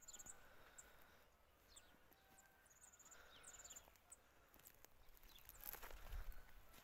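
Quiet outdoor ambience with faint songbirds chirping and giving short high trills. About six seconds in there is a brief louder rustle with a low rumble.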